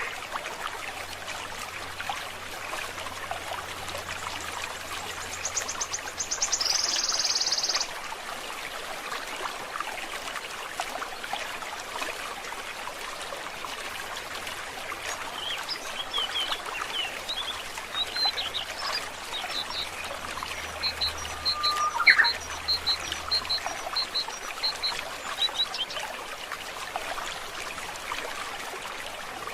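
Stream water trickling and flowing steadily, with birds calling over it. About seven seconds in there is a loud, high buzzing trill lasting about a second and a half. From the middle of the stretch onward come scattered short high chirps, an evenly spaced run of chirps and a quick upward whistle.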